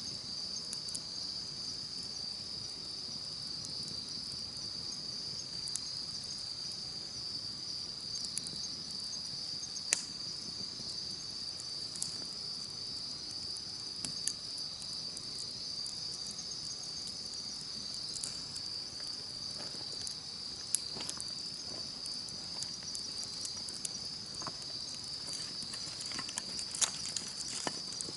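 Insects chirping in a steady, high-pitched chorus, over a wood campfire crackling in scattered small snaps, with a few louder pops.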